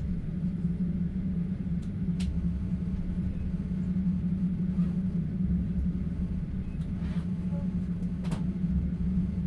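Steady low rumble of a passenger train running, heard from inside a platskart sleeper carriage, with a couple of faint clicks.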